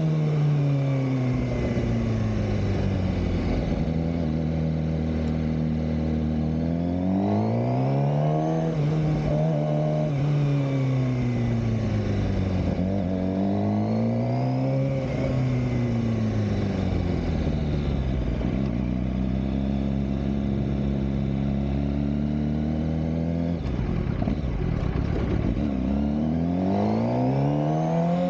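Suzuki GSX-R600 K7 inline-four engine under way, its revs climbing and falling several times: rising about seven seconds in, easing off, rising again near thirteen seconds, settling low through the middle, and climbing again near the end.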